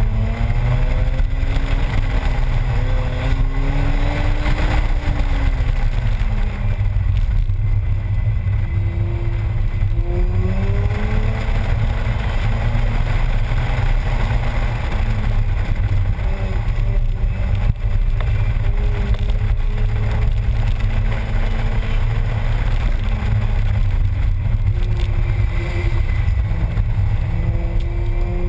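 Mazda RX-8's rotary engine revving up and down through an autocross run, its pitch climbing and dropping repeatedly, over a heavy low rumble.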